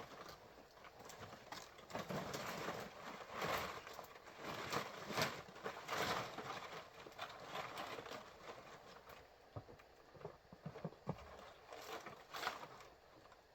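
Irregular knocks and clatter of hard objects being handled, with short scraping or rustling noises between them.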